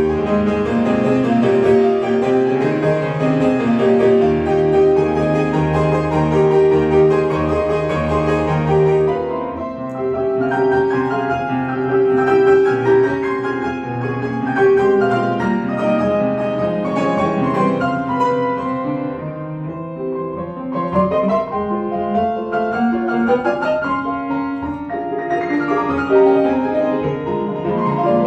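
Solo piano playing classical music: sustained chords and melodic lines, with a quick rising run of notes about three quarters of the way through.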